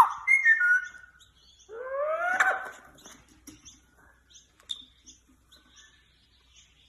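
Pet parrot vocalising without words: a short gliding call at the start, a louder rising whistle about two seconds in, then soft scattered clicks and chirps.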